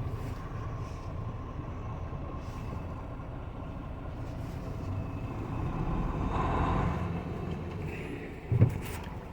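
Truck engine running, a steady low rumble that grows louder about six seconds in, with a short thump near the end.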